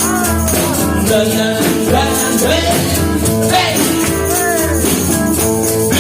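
A band playing a rhythm-and-blues groove with a steady beat, sustained chords and a melody line that bends in pitch.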